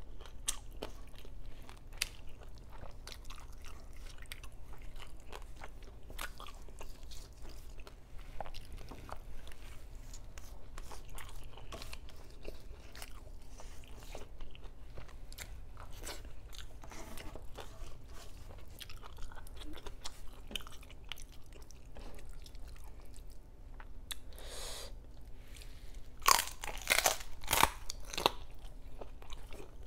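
Close-miked chewing with small wet mouth clicks as soft rice and laing are eaten by hand, then several loud crunching bites near the end, typical of teeth breaking the crispy skin of lechon kawali (deep-fried pork belly).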